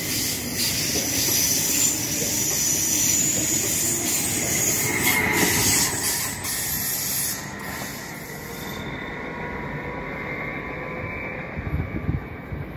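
Electric passenger train running along the platform: a loud hiss of running noise with a thin wheel squeal, dropping away sharply about eight seconds in as the train moves off. A few low thumps near the end.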